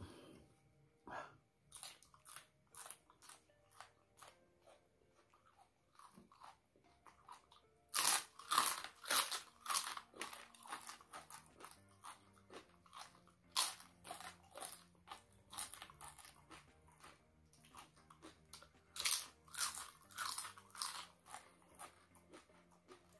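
Close-miked eating: crisp crunching and chewing of thin fried crackers eaten with raw red chilies, in runs of bites. The loudest runs come about eight seconds in and again around fourteen and twenty seconds.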